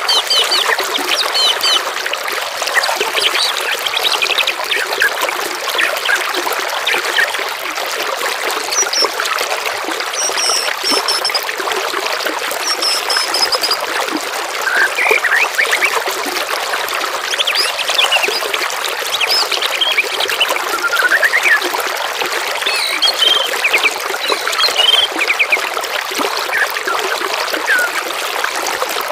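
Water trickling and babbling steadily, with assorted songbirds chirping and trilling in short, scattered phrases over it.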